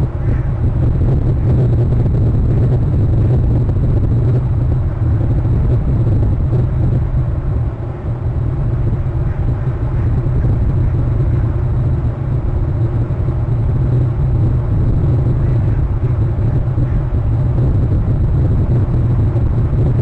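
Steady low rumble on an outdoor camera microphone, typical of wind buffeting the mic, with no distinct calls or knocks.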